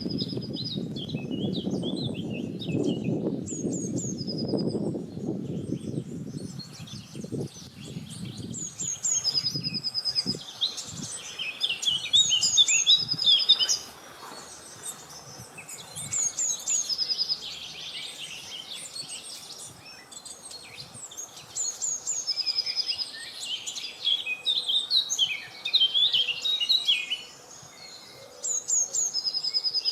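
Several wild birds singing, one repeating a short rapid trill again and again among the other chirps and phrases. A low rush of wind fills the first few seconds, then dies away, leaving the birdsong.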